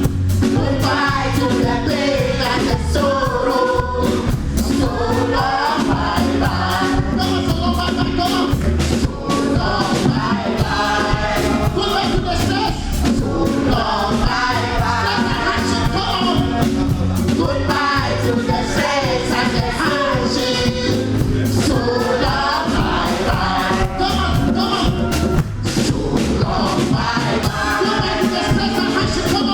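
Gospel choir singing with live band accompaniment over a steady beat.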